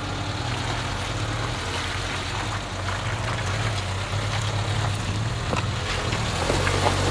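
Suzuki SJ-series 4x4's engine running at low revs as it crawls over rocks, growing louder as it comes closer.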